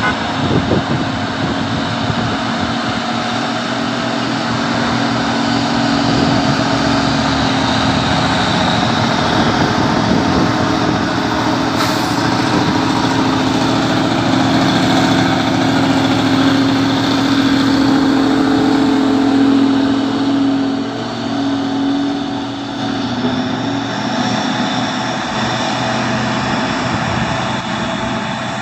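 A heavy truck's diesel engine running hard under load, its pitch creeping slowly up and then dropping about twenty seconds in.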